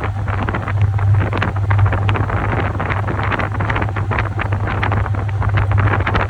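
Top-loading washing machine running: a steady low motor hum under continuous churning and sloshing of water and laundry in the tub.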